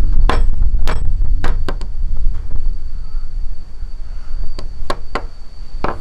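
A series of sharp knocks or strikes: four in the first two seconds and three more at a steady pace in the second half, over a constant low rumble and a faint steady high tone.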